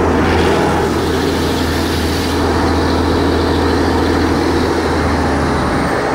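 Nilgiri Mountain Railway toy train running on its metre-gauge track, heard from outside a carriage window: a loud, steady rumble of the locomotive and the wheels, with wind on the microphone. A faint high whine slowly falls in pitch.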